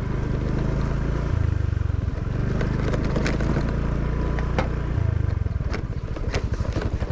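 Motorcycle engine running while riding, with sharp knocks and rattles from about halfway through. From about five seconds in, the engine slows to an even, pulsing beat.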